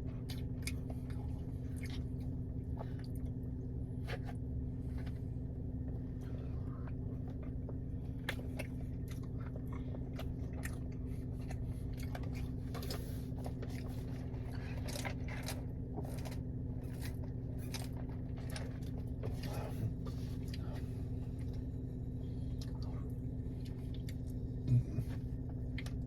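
Close-miked chewing and wet mouth sounds of a person eating syrup-covered pancakes, a scatter of small clicks over a steady low hum, with one brief thump near the end.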